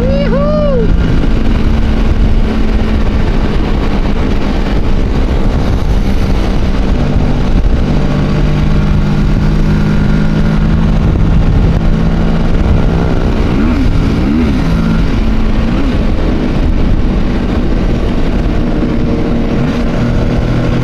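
Motorcycle engine running at a steady cruising speed, with wind and road noise; its note shifts a few times. A few short rising-and-falling tones sound about 14 seconds in.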